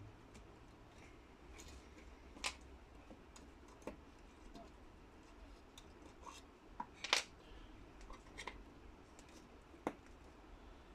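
A few scattered sharp clicks and taps of small parts being handled as a steam iron is taken apart, the loudest about seven seconds in, over a faint low hum.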